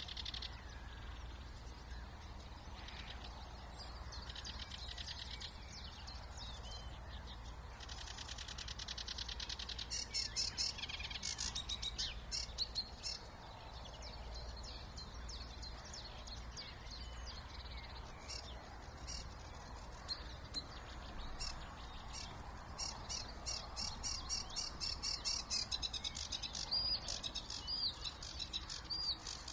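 Several songbirds singing in a spring chorus: overlapping phrases of quick repeated notes and fast trills, busiest midway and near the end, over a steady low background hum.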